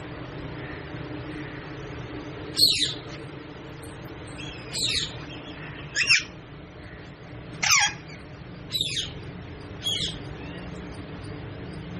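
Pet parrot squawking: six short, loud calls spaced a second or two apart.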